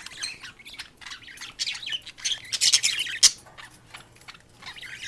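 A flock of pet budgerigars chirping and squawking in a cage: a run of short, high calls, busiest in the middle.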